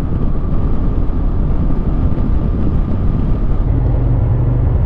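Motorcycle engine running under way, with road and wind noise; the engine note changes about four seconds in.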